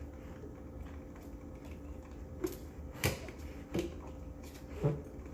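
A few light, separate clicks and taps, the kind a pet bird's beak makes knocking at containers and lids on a kitchen counter, over a low steady hum.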